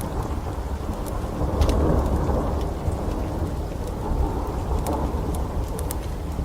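Steady heavy rain with a deep low rumble that swells about two seconds in and again near the five-second mark, and scattered sharp pops and crackles of a wood fire.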